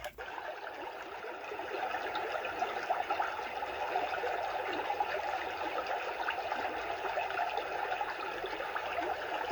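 Magicteam SN-A3 sound machine playing its recorded "river" sound: steady rushing, flowing water noise from the unit's speaker. There is a brief click right at the start, and the water grows slightly louder after about two seconds.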